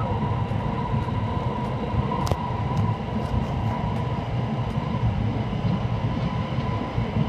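Hokuriku Shinkansen train running, heard from inside the passenger cabin: a steady low rumble with a faint steady whine over it, and a sharp click a little over two seconds in.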